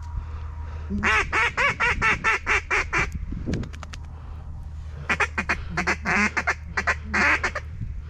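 Mallard duck call blown in two runs of rapid, loud quacks at about four or five a second: a run of some nine quacks about a second in, then a second run about five seconds in.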